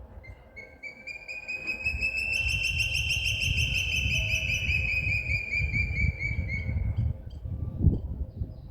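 A bird singing one long trill of rapid, evenly repeated whistled notes that rises slightly in pitch and then slowly falls, lasting about seven seconds, over a low rumble, with a thump near the end.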